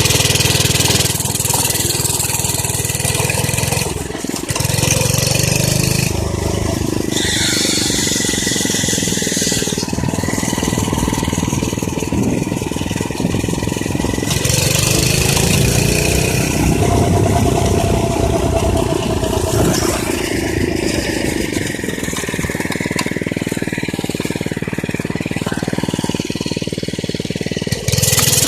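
Minibike's small engine running as it is ridden, its pitch rising and falling as the throttle is opened and eased off.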